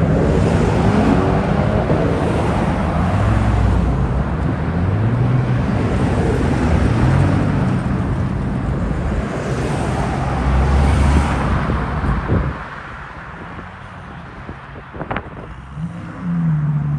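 Performance car engines revving and accelerating away, the engine note rising and falling for about twelve seconds, then dropping off suddenly to quieter traffic noise. Another engine comes in near the end.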